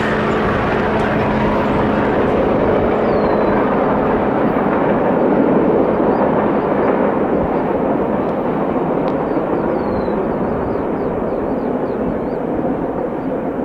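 Freight train rolling past, a loud steady rush of wheels on rails that swells about halfway through.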